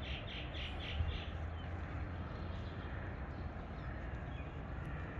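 A bird calling in a quick run of repeated chirps, about four or five a second, that stops about a second in, over a steady low rumble of outdoor background noise.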